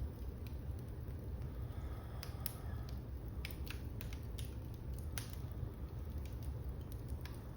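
Wood fire burning in a fireplace: a steady low rumble of flames with scattered sharp crackles and pops, most of them in the middle and the loudest about five seconds in.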